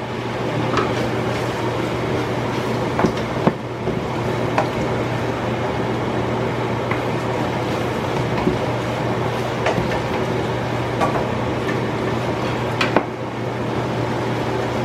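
Steady hum and hiss with scattered light taps and clicks from handling boiled ham hock meat and bones.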